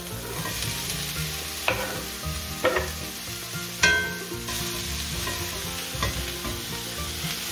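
Diced pork chicharrón sizzling in hot oil with onions in a cast-iron skillet, starting to brown. A few sharp scrapes and knocks of a knife and spatula against the pan are heard as the meat is pushed in and stirred, the loudest about four seconds in.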